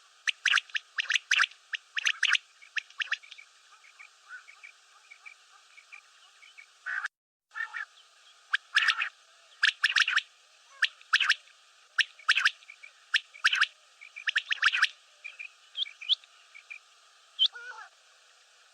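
Common quail calling: sharp, clipped notes given in quick groups, repeated again and again, with a brief break about seven seconds in.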